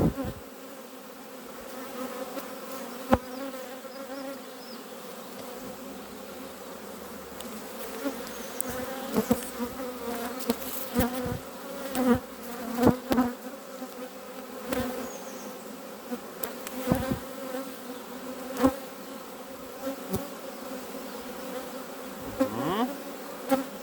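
Honeybees buzzing around an open hive, a steady many-bee hum, with scattered sharp knocks and clicks as the hive's frames are handled. Near the end the pitch of the hum rises briefly.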